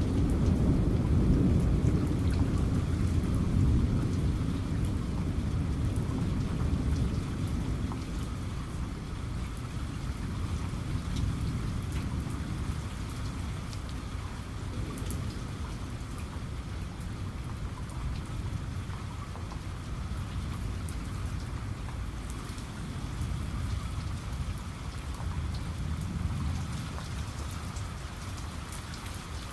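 Steady rain with the patter of drops, under a low rumble of thunder that fades away over the first several seconds; the rumble swells faintly again near the end.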